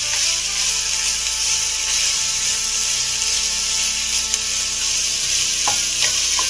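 Food sizzling steadily in a hot pot, with a few light clicks in the second half.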